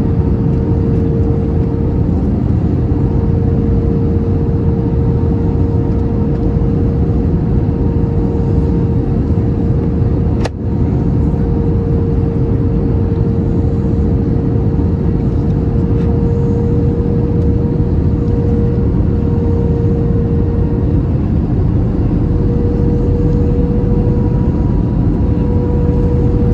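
Steady cabin noise inside an Airbus A321 on final approach: the rumble of engines and airflow with a steady droning tone over it. A short click with a brief dip in level comes about ten seconds in.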